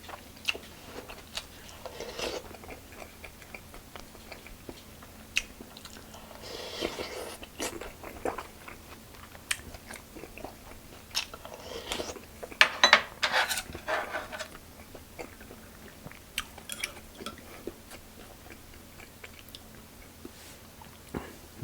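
A person eating at close range: chewing and crunching food, with clicks and clinks of a spoon and chopsticks against the dishes. The sounds come in short, scattered bursts, the loudest cluster about halfway through.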